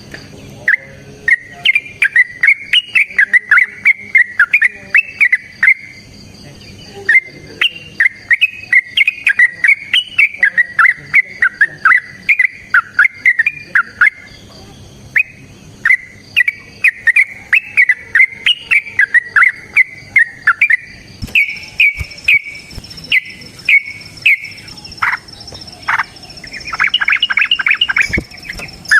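Yellow-vented bulbul (trucukan) singing its long, rapid bubbling song: long runs of quick chattering notes broken by brief pauses, then shorter repeated notes and a fast dense run near the end.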